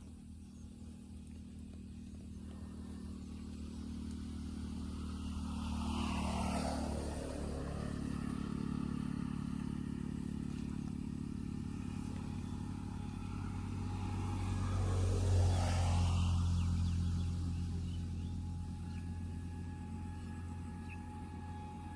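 Motor vehicles passing by with a low engine hum: one passes about six seconds in, and a second, louder one about fifteen seconds in.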